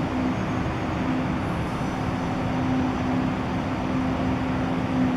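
Steady urban traffic noise with a constant low droning hum, even throughout with no distinct events.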